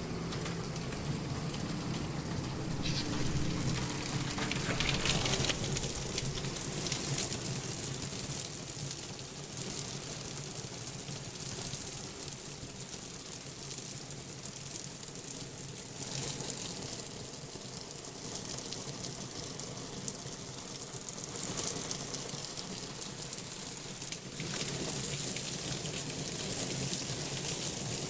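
Heavy typhoon rain pouring down steadily, its hiss swelling louder in gusts a few times.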